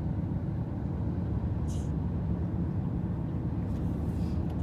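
Steady low road rumble of a moving car, heard from inside the cabin, with two brief hissing swishes, one under two seconds in and one near the end.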